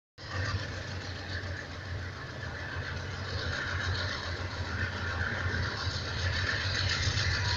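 Five GE C30-7 diesel-electric locomotives running, with their 16-cylinder engines making a steady low drone under a wash of higher noise. The sound grows slowly louder.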